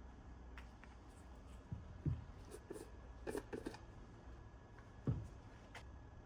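A few light knocks and clicks over a low steady hum, the sharpest about two seconds in and about five seconds in.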